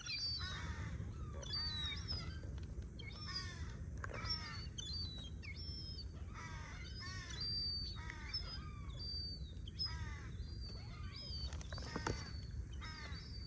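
Young birds begging for food: a run of short, repeated down-slurred calls, one after another, mixed with thin high whistled notes.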